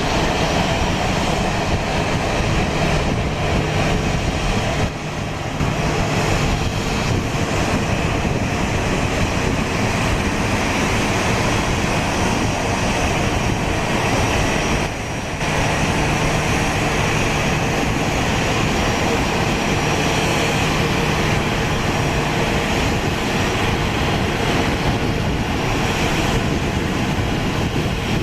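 Boeing 737-800's CFM56-7B jet engines running at taxi power: a steady, loud rush of jet noise with a low steady hum, briefly dipping twice.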